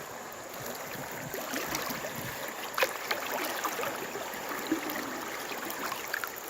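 Creek water running and sloshing around someone wading, with irregular small splashes and one sharper splash about three seconds in.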